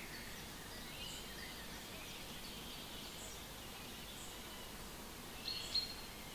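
Wild birds singing faintly over a steady background hiss, with scattered short chirps and a thin high tick about once a second. One sharper, louder bird call comes near the end.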